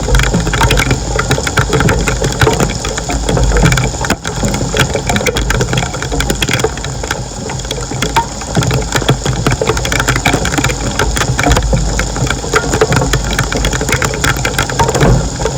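An engine running steadily, with a continuous rattle over a low hum.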